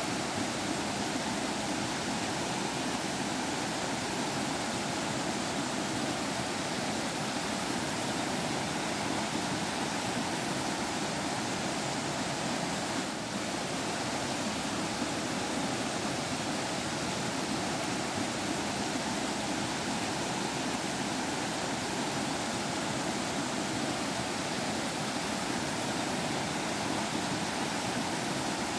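Water of a forest stream flowing steadily, an even, unbroken sound of running water.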